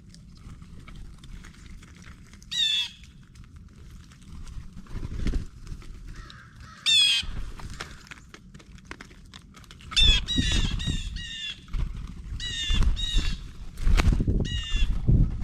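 Blue jays giving harsh, scolding jay calls: single calls at first, then a quick run of four, followed by a few more. Low rumbling and faint clicks sound beneath the calls.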